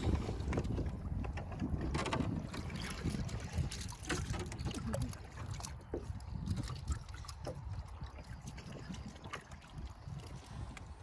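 Water lapping and splashing with occasional short knocks, under wind rumbling on the microphone, as heard from a small boat on the water.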